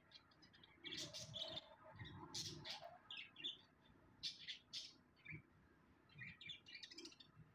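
Birds chirping faintly in short, irregular calls.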